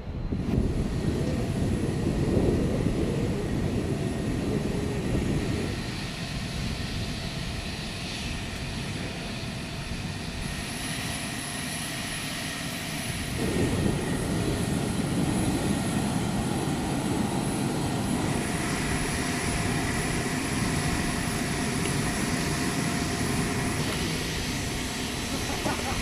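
Aircraft engines running loud and steady, the sound changing abruptly about five and thirteen seconds in.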